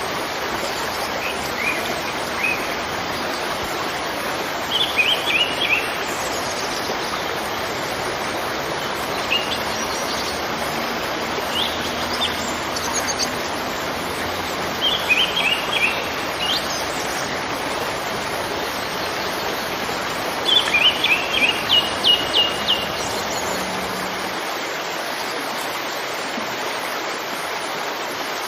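Steady rushing of a waterfall, with birds chirping in short quick clusters about five times over it; the loudest cluster of chirps comes near the end.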